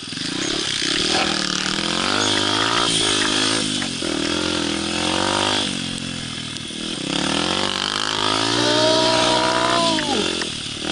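Pit bike's small single-cylinder four-stroke engine revving up and down in several surges under throttle, dropping off sharply near the end.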